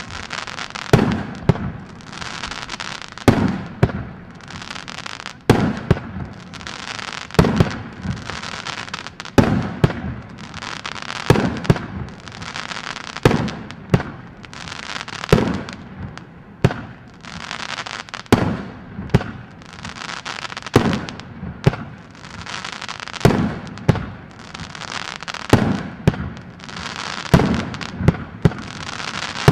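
A fireworks battery firing shot after shot: a sharp bang roughly every one to two seconds as each shell launches and bursts, with crackling between the shots.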